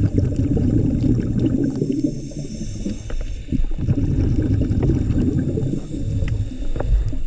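Scuba diver's exhaled bubbles rumbling and gurgling out of the regulator, heard underwater, with short breaks about three and a half and six seconds in.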